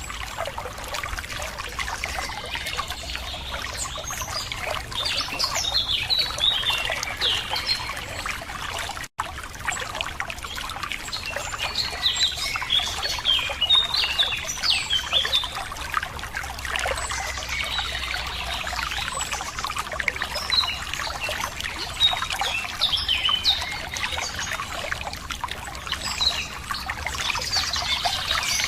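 Running water trickling steadily over stones, with songbirds chirping in short, scattered calls throughout. The sound cuts out for an instant about nine seconds in.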